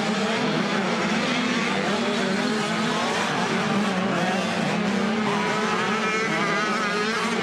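Several 85cc two-stroke motocross bikes racing, their engines revving up and down in overlapping, wavering notes.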